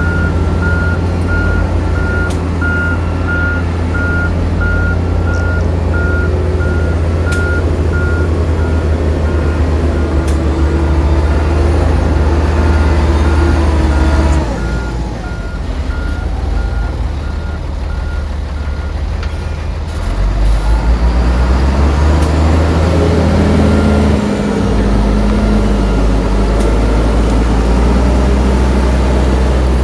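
Diesel engine of heavy earthmoving machinery running, with a reversing alarm beeping at an even pace. The engine eases off about halfway through, then revs up again with rising pitch at about two-thirds of the way, as the beeping stops.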